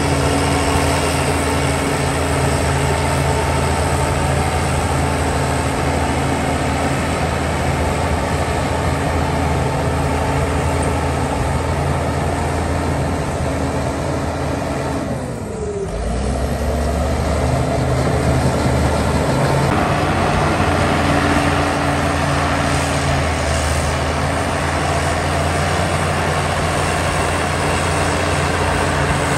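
Heavy diesel engines of earthmoving machinery running steadily under load. About halfway through the sound dips briefly and an engine note falls, then the running picks up again at a new steady pitch.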